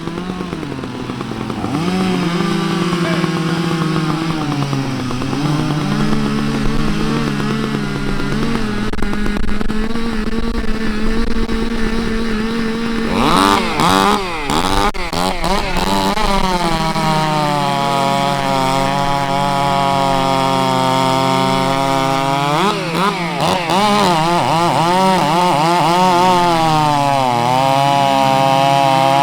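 Several two-stroke chainsaws running together while cutting blocks, their engines rising and falling in pitch as they load and rev. About halfway through, one saw becomes much louder, its pitch swinging up and down.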